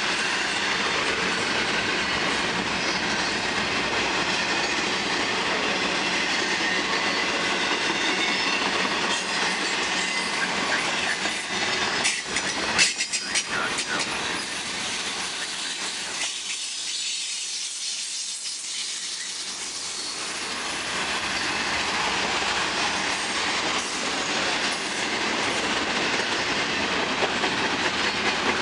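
Freight train's double-stack container well cars and covered hoppers rolling past with steady wheel-on-rail noise and clickety-clack. A cluster of sharp clacks comes about 12 seconds in. The noise drops for a few seconds just past the middle.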